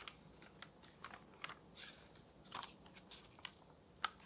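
Faint rustling and a scatter of small clicks and crackles from paper being handled, as journal pages and stickers are worked by hand.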